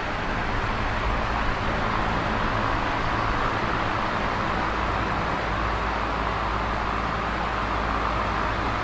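Electric fan running steadily: an even rush of moving air with a low hum underneath.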